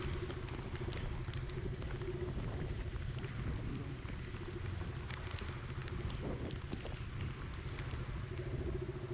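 Motor scooter engine running steadily while riding, over a constant low rumble of wind and road noise.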